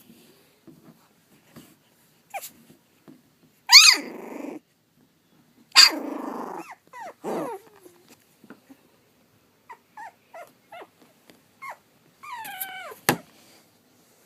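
Young pug–dachshund mix puppies yipping, squeaking and growling. Two sharp yelps are each followed by a short rough growl a few seconds in, then a run of short squeaks, and a falling whine near the end.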